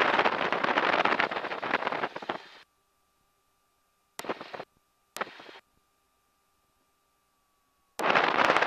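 Aircraft headset intercom keying open and shut: a burst of rushing engine and wind noise that cuts on suddenly and lasts about two and a half seconds, then two short blips, with near silence between while the voice-activated mic is closed, and the noise opening again near the end.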